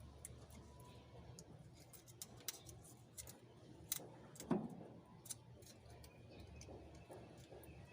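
Faint, scattered clicks and clinks of hand tools on metal engine parts, with one louder knock about four and a half seconds in.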